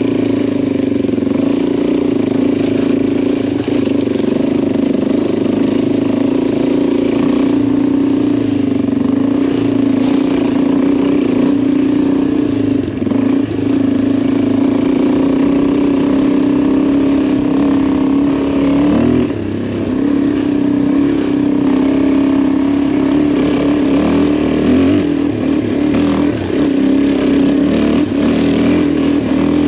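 Adventure motorcycle engine running at a steady pitch while riding, with a brief drop in the note about 13 seconds in and again about 19 seconds in, as the throttle eases.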